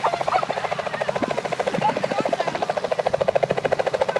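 Helicopter rotor beating close by: a rapid, even chopping pulse with the engine's whine under it, growing louder in the second half.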